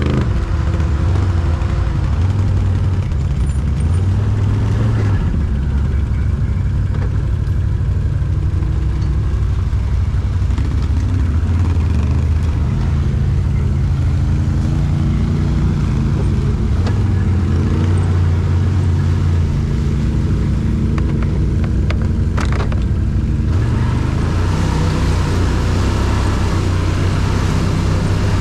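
ATV engine running continuously off-road, its pitch stepping up and down with the throttle, with a few brief knocks about three-quarters of the way in.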